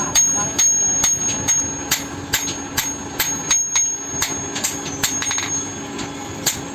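Hammer blows on metal at an anvil, forging rusted iron into a sword blade, about two to three ringing strikes a second at an uneven pace, over a steady hum.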